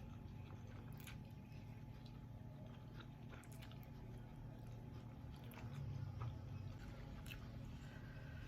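Close-miked chewing and biting, with sparse short crunches and mouth clicks scattered through, over a low steady hum.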